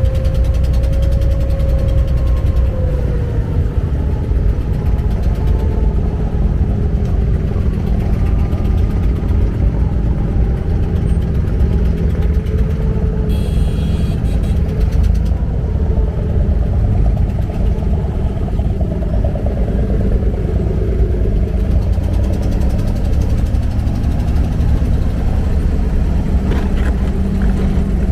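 An abra's inboard diesel engine running steadily with a deep rumble. Its pitch slides slowly up and down as the revs change.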